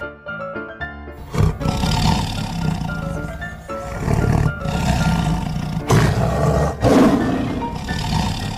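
Big cat roaring several times, with rough, loud roars over steady background music.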